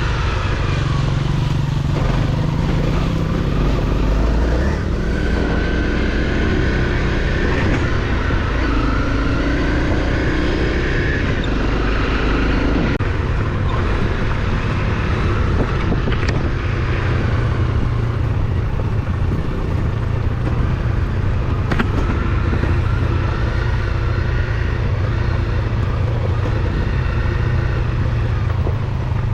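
Off-road motorcycle engine running while riding over rough trail, the revs rising and falling.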